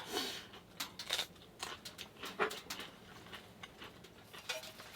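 Wood fire crackling in a wood-burning stove, with irregular small pops and snaps.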